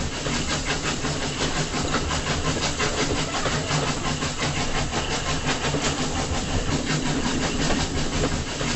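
A small engine running steadily at an even speed, with a fast, regular ticking beat, cutting off just after the end.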